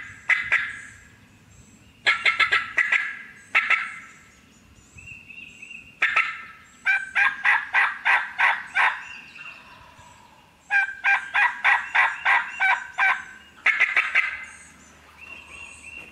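Eastern wild turkey gobblers gobbling on the roost: rattling gobbles in bursts every few seconds, some long and run together, as if from more than one bird.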